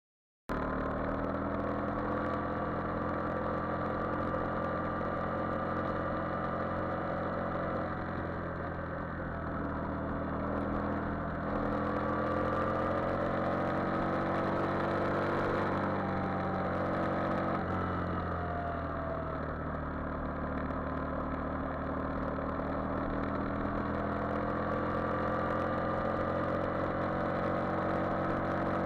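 Yamaha Virago XV400 air-cooled V-twin running while the motorcycle is ridden, its pitch falling and rising with the throttle: a drop about two-thirds of the way through, then a slow climb. The sound cuts in suddenly half a second in.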